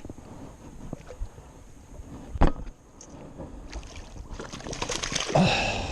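Handling noises aboard a small fishing boat: a single sharp knock about two and a half seconds in, then a rising, rushing noise near the end.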